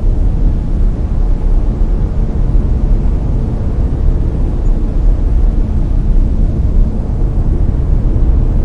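Layered brown noise: a steady, deep rushing noise with most of its weight in the low end, unchanging throughout.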